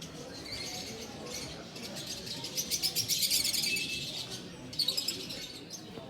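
Small cage birds chirping and twittering, a dense run of rapid high chirps in the middle and another short burst near the end.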